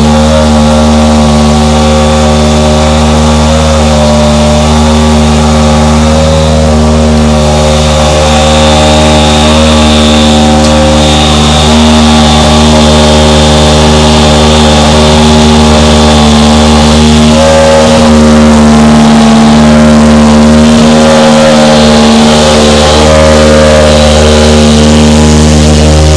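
A car engine running steadily at idle, with no revving.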